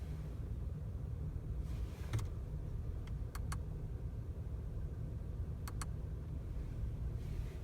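Audi 1.4 TFSI four-cylinder turbo petrol engine running warm at a steady idle with a low rumble, broken by a few sharp clicks. The owner says it has recently started making this loud sound once warm.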